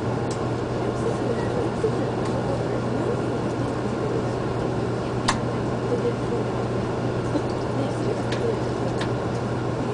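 Cabin running noise of a Shinkansen train at speed: a steady rumble with a constant low hum. A few sharp clicks come through, the loudest about five seconds in.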